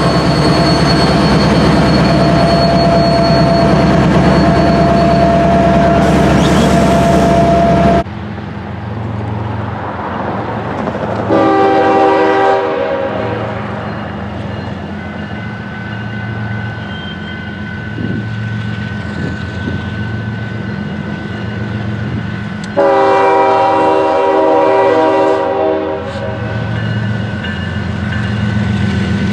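Freight train rolling past close by, with heavy wheel-on-rail noise and a steady squeal, cut off suddenly about eight seconds in. After that, over a low diesel engine rumble, a locomotive horn sounds two blasts about eleven seconds apart, the second one longer.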